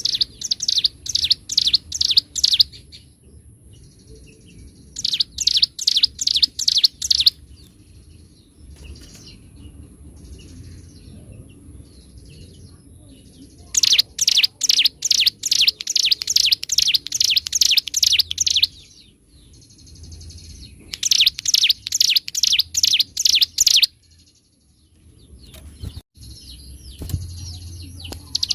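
Ciblek gunung (a mountain prinia) singing loudly: phrases of sharp, evenly repeated high notes, about three a second, lasting two to five seconds each, with quieter twittering in the pauses between them. A faint steady high-pitched whine runs underneath.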